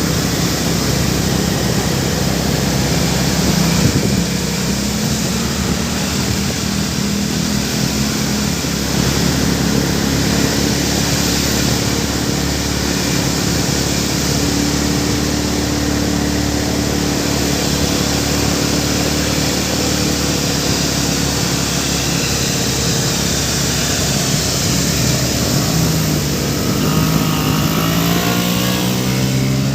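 Road traffic: vehicle engines running and passing, with an engine revving up in rising pitch near the end.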